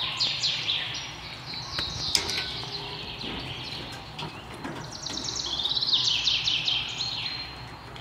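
Birds chirping in fast runs of short, high trilling notes, one run at the start and another from about five to seven seconds in.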